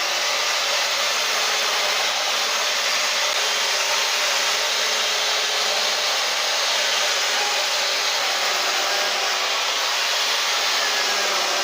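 Chainsaw running at a steady, high speed while cutting into a log, carving the hollow around a face's eye.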